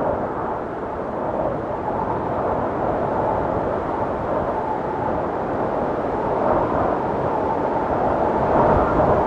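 Blizzard wind blowing steadily: a low rushing with a faint howling tone, gusting a little louder near the end.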